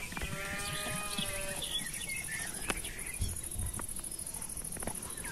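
A farm animal calls once, a drawn-out pitched cry lasting about a second, over small birds chirping. From about a second in, an insect keeps up a high, steady buzz until near the end.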